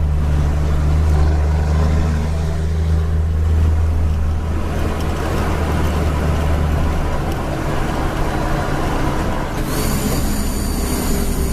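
Scania G-series truck's diesel engine running with a deep, steady drone. Its note breaks up and shifts about halfway through as gears are changed. A high whistle joins near the end.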